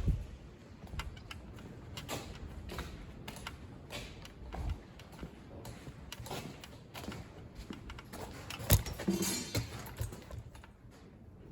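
Scattered clicks and knocks of workshop handling, with one sharp knock about three-quarters of the way through, followed by a brief rattle.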